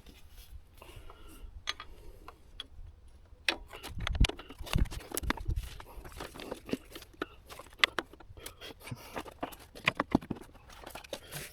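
Irregular clicks and knocks of a socket wrench and metal parts being handled in a car's engine bay, with a few dull thumps about four to five seconds in.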